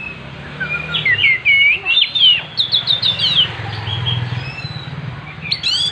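Oriental magpie-robin (kacer) singing: a fast, varied string of clear whistled notes and slurred chirps that slide up and down, busiest in the first half and picking up again near the end. A low steady hum runs underneath.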